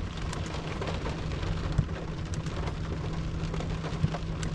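Rain pattering on the roof and windshield of a car, heard from inside the cabin as a steady patter of many small drops over a steady low hum.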